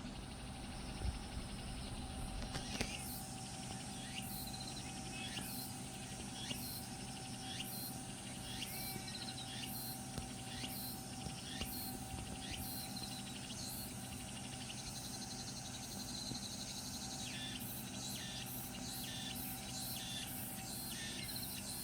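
Insects chirping in short, evenly repeated high-pitched pulses about twice a second, over a steady low hum.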